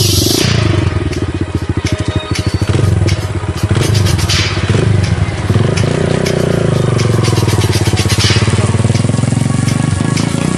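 Kawasaki dirt bike's single-cylinder engine running at low speed through mud, its revs dipping and then rising again in the second half.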